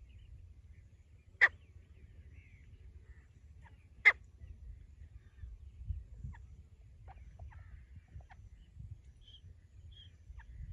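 A francolin giving two short, sharp call notes about two and a half seconds apart, over faint chirps of other birds and a low rumble of wind on the microphone.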